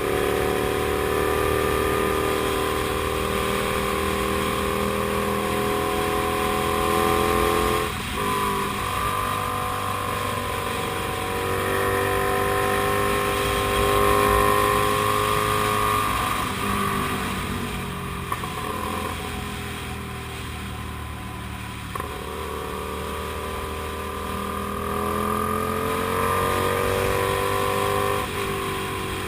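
Comet GTR250 motorcycle's 250 cc V-twin engine running under way, its pitch climbing and falling with the throttle. Sharp breaks in pitch about 8 seconds in, a little past two-thirds through and near the end mark gear changes.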